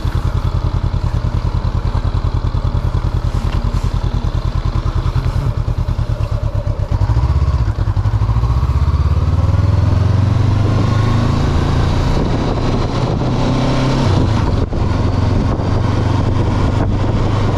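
2022 Honda CB500F's parallel-twin engine running as the motorcycle is ridden: low, even pulsing at first, then rising in pitch as it accelerates about halfway through.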